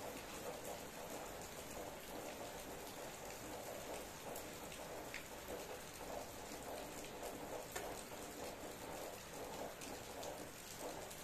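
Steady rain falling, a dense patter of drops with a few single louder drips standing out now and then.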